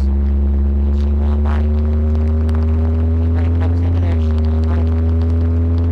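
The 351 Windsor V8 of a 1977 Ford Ranchero GT drones steadily while the truck is driven, its pitch climbing slowly as it gathers speed. The pitch dips slightly about four seconds in, then climbs again.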